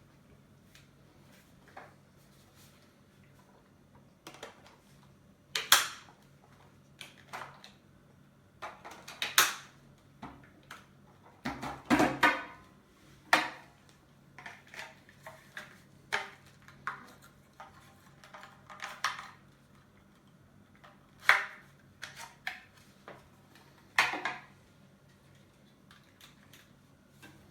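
Irregular clicks, knocks and rattles of hard objects being handled, set down and fitted together, spaced unevenly. The loudest come about six, nine, twelve, twenty-one and twenty-four seconds in.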